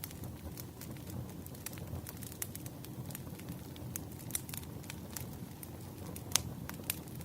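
Wood fire burning steadily, with a low rumble of flames and irregular sharp crackles and pops of the burning logs, one louder pop about six seconds in.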